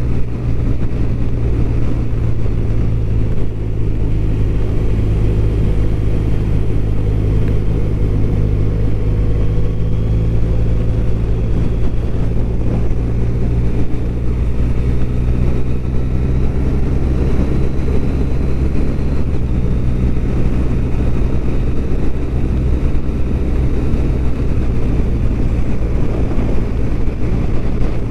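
BMW R1200RT flat-twin engine running at a steady cruise, its low note holding even, under a constant rush of wind and road noise.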